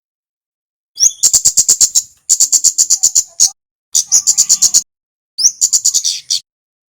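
A kemade (Javanese kemlade merah) singing in four quick phrases of sharp, high ticking notes, about ten a second. Some phrases open with a short rising note.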